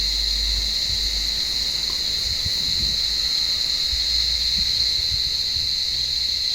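Cicadas in an olive tree calling in a loud, steady, high-pitched chorus that does not break or change.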